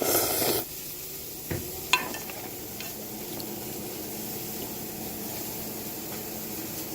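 Steady sizzling hiss of food frying in a pan. A short clatter at the start, a knock about a second and a half in, and a sharp click half a second later.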